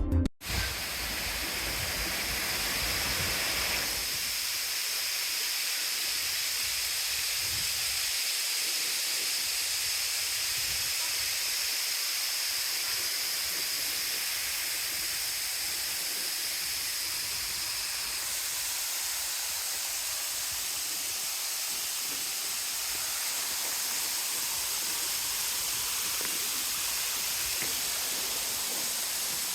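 Steady rush of water from a waterfall or stream. The deeper part of the rush drops away about four seconds in.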